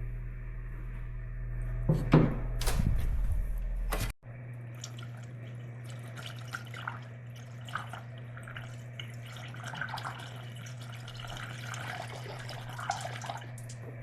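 Coolant being poured into a car radiator: liquid pouring and dripping in small irregular splashes over a steady low hum. A few knocks come in the first few seconds.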